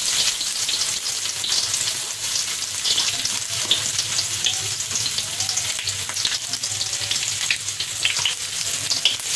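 Sliced garlic and shallots sizzling in hot oil in a wok, with a steady crackle of small spits, just after being dropped in from a cutting board.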